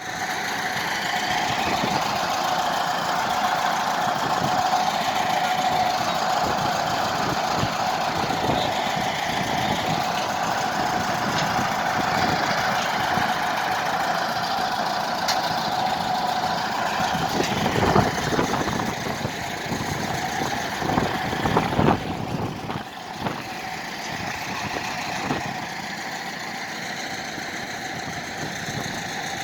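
A heavy engine running steadily, with a steady hum. A few sharp knocks or clatters come about two-thirds of the way through, and the engine runs a little quieter near the end.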